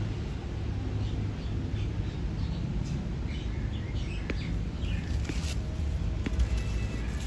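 Birds chirping faintly here and there over a steady low rumble, with a few scattered clicks.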